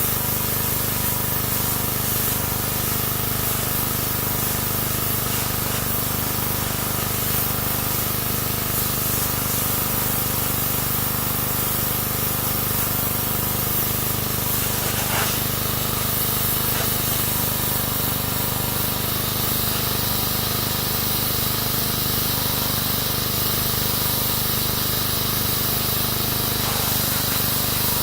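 Pressure washer spraying water into a car's engine bay: a steady hiss of spray over a constant low hum from the machine, with no pause.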